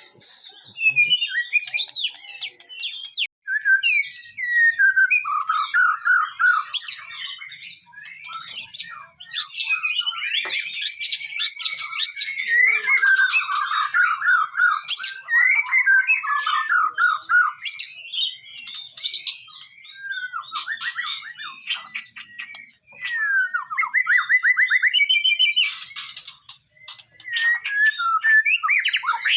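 White-rumped shama (murai batu) singing a long, varied song of whistles, rising and falling trills and fast repeated notes, phrase after phrase with only brief breaks.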